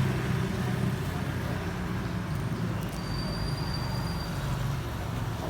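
A steady low rumble like an idling engine or nearby traffic. A faint thin high tone sounds briefly about three seconds in.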